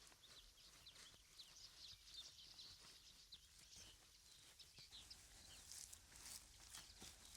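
Faint, scattered high chirps of small birds over a quiet outdoor background.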